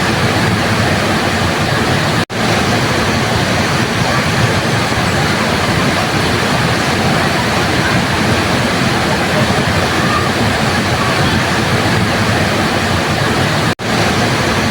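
Waterfall water rushing in a loud, steady hiss, with two instant gaps, about two seconds in and near the end, where the sound cuts out and comes straight back.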